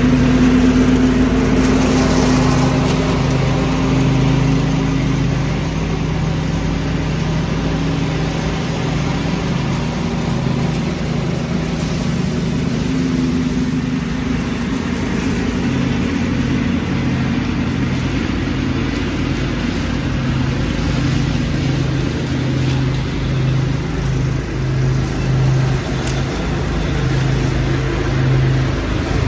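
Small engine running steadily at a constant speed while vacuuming leaves: a steady low hum over an even rushing noise.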